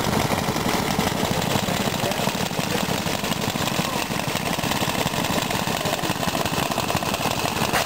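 Vintage gas engines running with a steady, rapid chugging.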